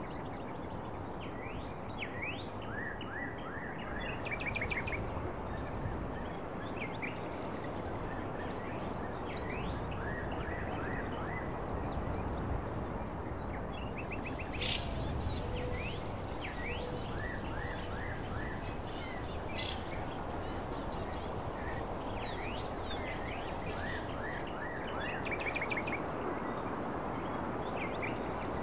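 Small birds chirping and calling again and again over a steady, even background noise.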